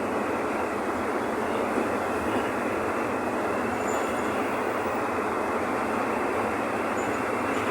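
Mercedes-Benz OF-1519 bus's diesel engine running at a steady pace, heard from inside the cabin together with rolling and road noise as the bus drives along.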